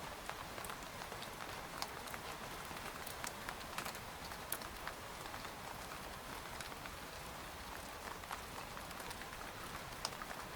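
Steady rain falling on a tent's fabric: an even hiss of rainfall with many separate drops tapping sharply here and there.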